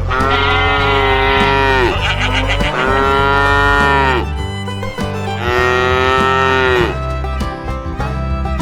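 A cow mooing three times, each long call dropping in pitch at its end, over background country music.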